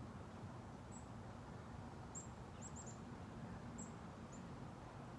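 Faint, very high-pitched bird chirps: several short falling notes at irregular intervals, over a low steady outdoor background rumble.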